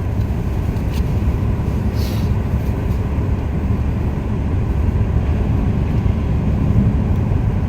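Steady low rumble of a car driving, heard from inside the cabin, with a brief hiss about two seconds in.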